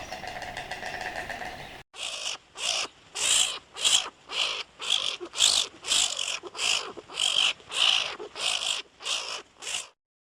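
A steady hum cuts off about two seconds in. Then an animal gives a series of about sixteen short, harsh, hissy calls, roughly two a second.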